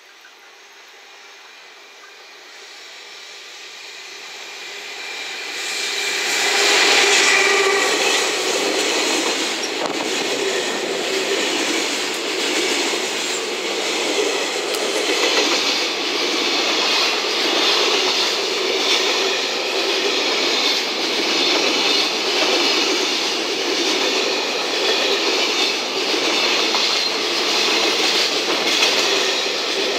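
JR Freight EF210 electric locomotive hauling a container freight train, growing steadily louder as it approaches and passing loudest about six to seven seconds in. After it, the container wagons roll past with steady wheel-on-rail noise and a rhythmic clatter of wheels.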